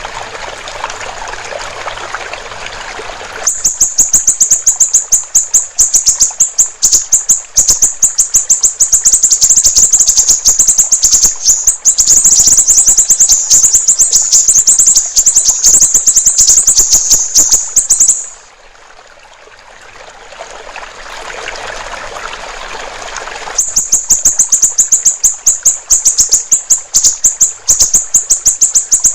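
Siri-siri bird singing a long, very high-pitched trill of rapid ticking notes, starting about three seconds in. The song breaks off for a few seconds past the middle, leaving trickling water, then starts again.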